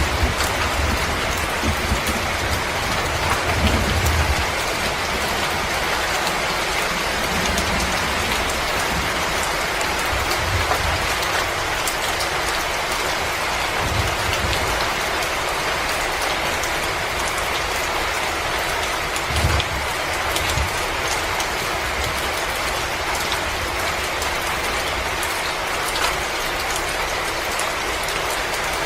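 Wood fire crackling in a fireplace: a steady dense hiss full of fine crackles, with a few soft low thumps.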